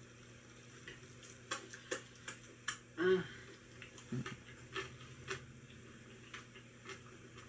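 Mouth sounds of a man eating a mouthful of food: scattered wet clicks and smacks of chewing, with a short voiced grunt about three seconds in.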